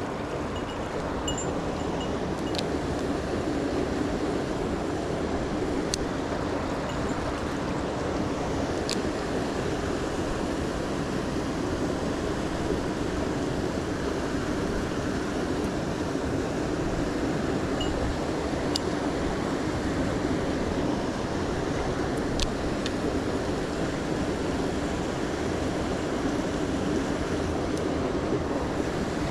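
Mountain stream water rushing steadily, with a few faint sharp ticks now and then.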